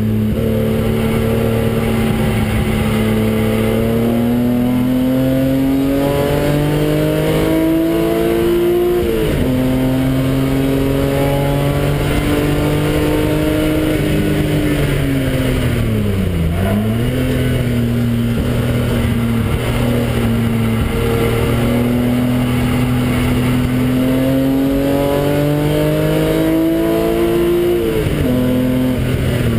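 BMW engine heard from inside the cabin under hard acceleration on a race track. The revs climb steadily and drop sharply at an upshift about nine seconds in, sag and pick up again around the middle, then climb once more and drop at another upshift near the end.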